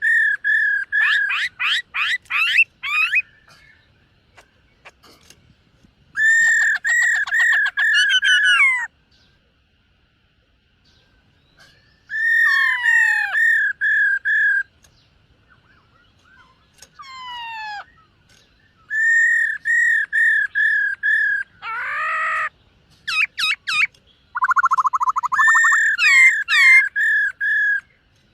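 Black-throated laughingthrush singing loud whistled phrases: runs of ringing repeated notes mixed with quick rising and falling slurs. The song comes in about half a dozen bouts with short pauses between them, and a brief harsh, rasping note comes late on.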